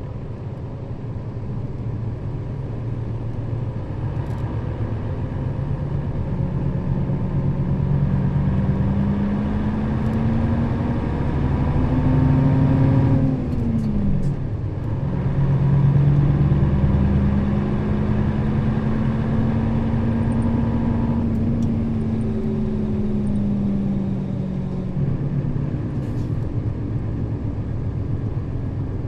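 Nissan Diesel KL-RA552RBN bus's diesel engine under way, its revs climbing steadily. About halfway through they drop sharply, then climb again and slowly ease off near the end, over a steady low rumble.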